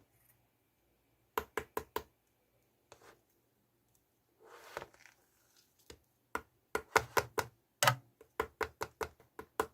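Sharp knocking taps on a hard object: a quick run of four about a second and a half in, a soft rustling squish around the middle, then a fast, uneven run of taps through the second half.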